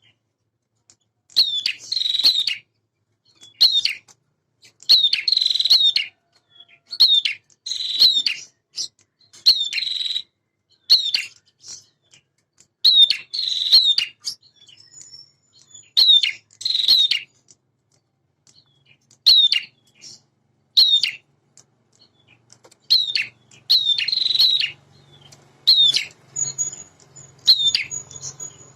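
Male prinia (prenjak) singing: short bursts of sharp, quick chirps, repeated every second or two with brief pauses. A faint low hum comes in near the end.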